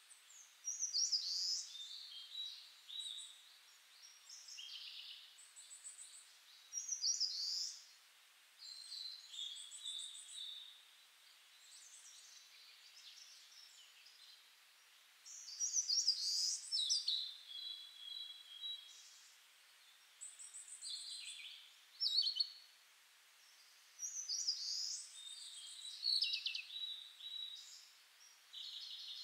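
Songbirds singing: short phrases of high chirps, whistles and trills, repeating every second or two with brief gaps, over a faint steady hiss.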